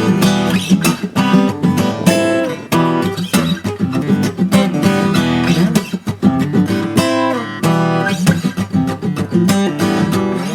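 Acoustic guitar music, strummed and picked chords at a lively pace.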